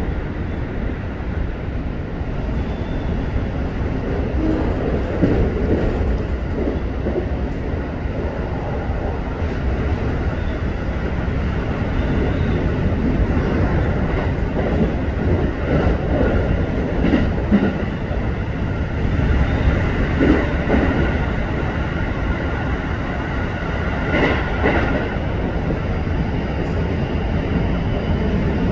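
Keikyu 1000 series electric train running, heard inside the passenger car: a steady rumble of wheels on rails with scattered clicks, and faint steady whine from the Mitsubishi full-SiC VVVF traction motors.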